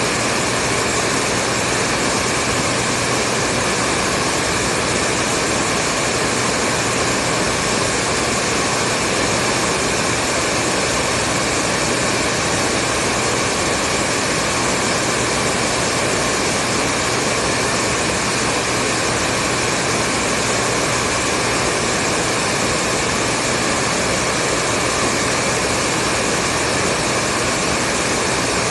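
Hair dryer running continuously: a steady motor-and-fan whoosh of airflow with a faint hum, unchanging in level or pitch.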